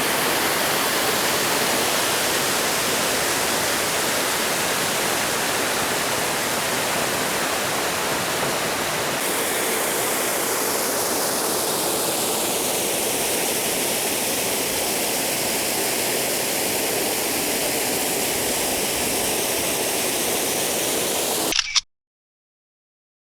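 Waterfall and fast-flowing river water rushing in a steady loud hiss, its tone shifting slowly; it cuts off suddenly near the end, followed by two brief clicks.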